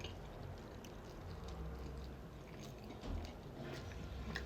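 Quiet chewing of a mouthful of food, with soft wet mouth clicks and smacks and a slightly louder chew about three seconds in.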